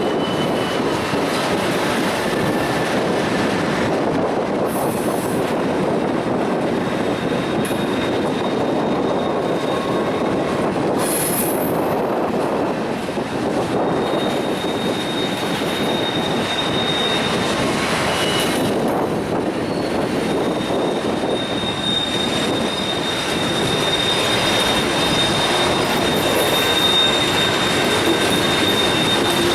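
Freight train cars rolling past with a steady rumble, and wheel flange squeal, a thin high tone, coming in about 14 seconds in and again, louder, from about 22 seconds on.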